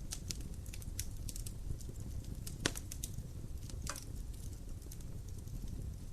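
Wood fire crackling in a fireplace: irregular snaps and pops over a low steady rumble, with one louder pop a little under three seconds in.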